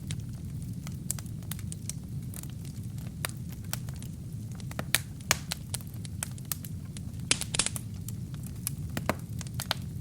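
Wood fire burning in a fireplace: irregular sharp crackles and pops from the burning wood and kindling over a steady low rumble of the flames, with a brief hiss a little after seven seconds in.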